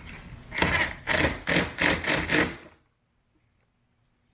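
Five or six quick scraping or rubbing strokes over about two seconds, then the sound cuts off suddenly.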